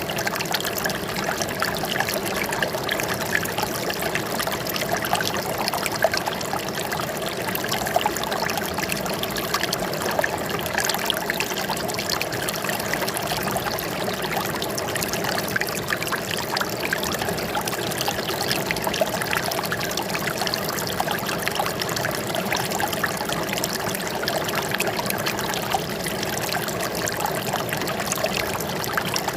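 Running water trickling and splashing steadily, like a small stream or cascade.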